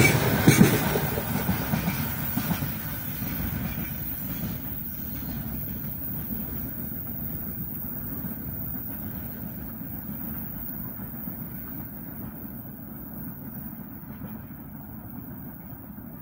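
Freight train's last wagons passing close, their wheels clattering for about a second, then the rumble of the train fading steadily as it moves away.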